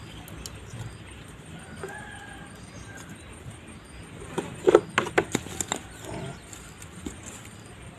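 A rooster crowing faintly, one drawn-out call about two seconds in. Around the middle comes a quick run of sharp knocks or clacks, louder than the crow.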